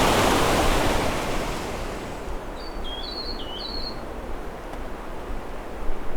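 Rushing water noise that fades over the first two seconds. Then a New Zealand tomtit sings a quick phrase of about five high notes that alternate between two pitches.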